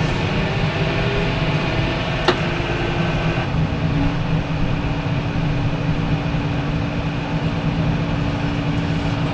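Tractor engine running steadily while packing a wet corn pit, with a single sharp click a little over two seconds in and a change in the engine's steady tone about a second later.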